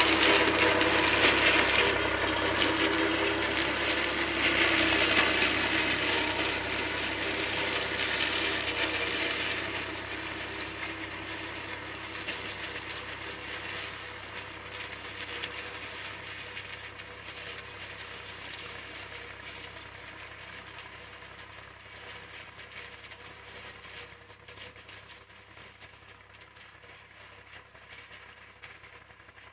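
IMT 539 diesel tractor running a SIP Roto 135 forage harvester, a steady engine hum over the rattle of the machinery. It fades steadily throughout as the outfit moves away.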